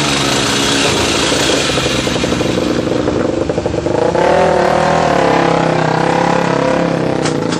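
Single-cylinder Supermono racing motorcycle engine running at speed on track, its pitch shifting with the revs and climbing about four seconds in before holding high.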